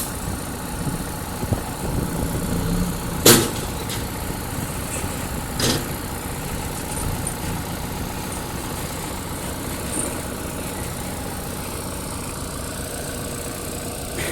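Diesel engine of heavy earthmoving machinery running steadily, with a few sharp knocks: one at the very start, the loudest about three seconds in, and another near six seconds.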